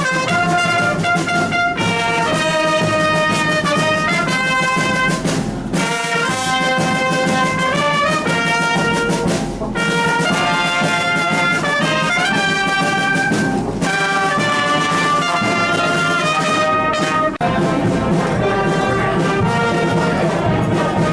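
Military brass band playing a march-like tune, with trumpets and trombones carrying the melody in held, phrased notes.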